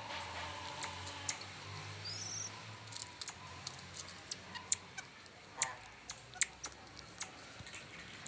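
Marmosets: scattered sharp clicks and taps, with a brief high-pitched chirp about two seconds in.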